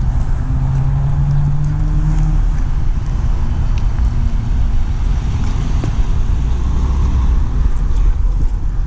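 A police SUV's engine running as the vehicle pulls up and stops close by, with a hum during the first couple of seconds over a steady low rumble of wind on the microphone.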